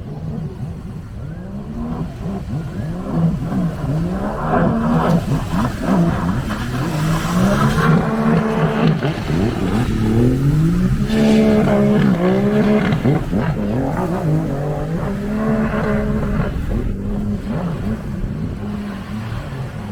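Several jet ski engines racing, their pitch swooping up and down over one another as the riders throttle on and off, growing louder toward the middle.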